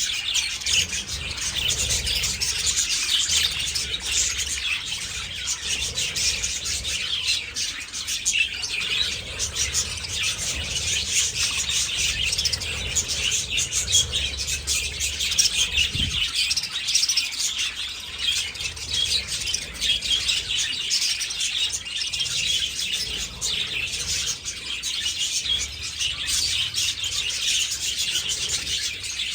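A flock of budgerigars chattering, a dense, continuous mass of overlapping high chirps and warbles.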